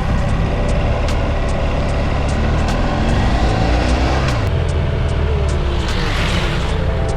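BMW F 800 GS parallel-twin motorcycle engine running under way, its pitch falling about three to four seconds in and then climbing again.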